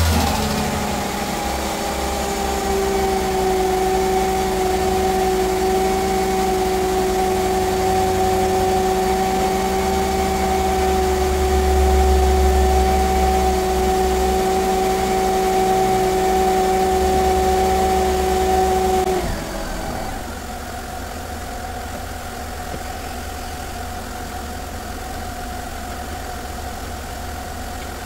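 Mercedes-Benz M112 V6 running at idle just after starting, with a steady whine over it. The whine cuts off suddenly about 19 seconds in, leaving a quieter, even idle.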